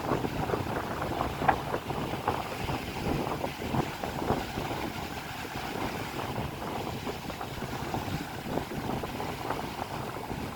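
Rain falling, with wind buffeting the microphone: a steady noisy rush broken by frequent short, irregular taps.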